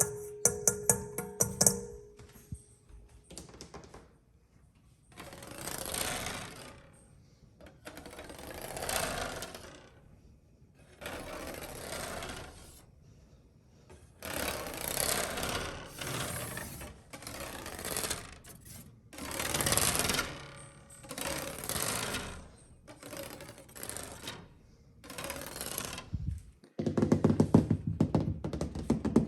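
Close-miked ASMR tapping and scratching on objects: a quick run of taps, then about a dozen slow scratching strokes of a second or so each with short gaps, and a fast run of taps again near the end.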